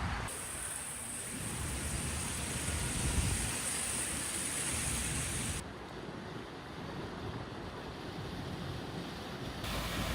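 Steady rushing noise of wind and water, with a sudden change in character about half a second in, again about five and a half seconds in, and near the end.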